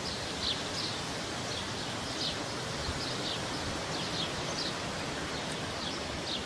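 Light wind in a lull, a steady soft hiss without gusts, with short high chirps repeating about twice a second.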